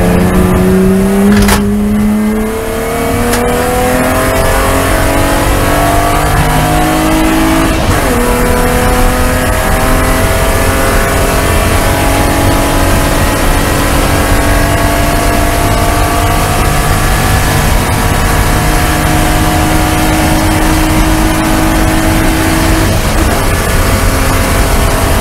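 BMW E36 Spec3 race car's straight-six engine at full throttle, heard from inside the cabin: it upshifts about two and eight seconds in, then its pitch climbs slowly down a long straight until the note changes near the end.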